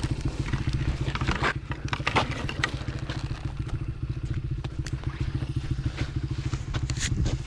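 2001 Honda XR80R dirt bike's single-cylinder four-stroke engine idling steadily. Several sharp cracks and scrapes of branches come over it, from a fallen tree being pushed.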